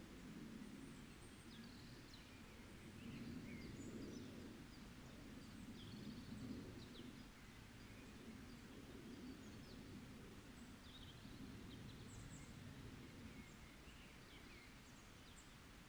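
Faint forest birdsong: many short, scattered high chirps from small birds, over a steady low rumble.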